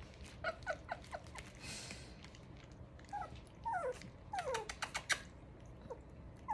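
Three-week-old puppies whimpering in short, high squeaks that fall in pitch, several in a row, with a few sharp clicks about five seconds in.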